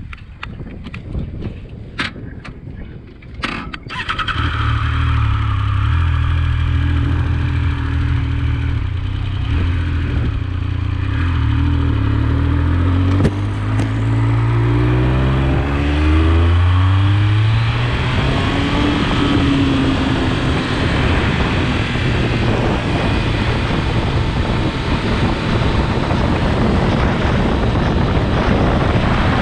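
A few clicks and knocks, then a motorcycle engine, a Triumph Speed Triple 1200 RS inline-three, starts about four seconds in and runs steadily. From about twelve seconds it rises in pitch as the bike accelerates away. After that, heavy wind noise on the microphone takes over while riding.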